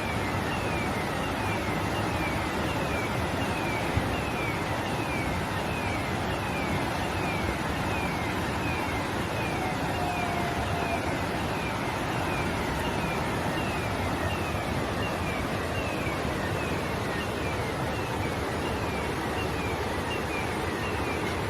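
Steady rush of floodwater, with a high chirp falling in pitch that repeats evenly, a little under twice a second.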